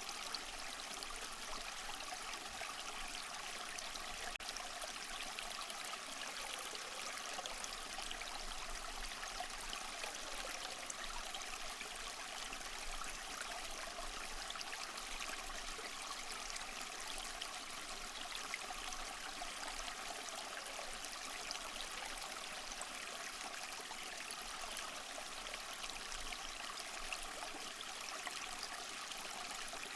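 Small waterfall running over moss: steady splashing and trickling water, even throughout, with little low rumble.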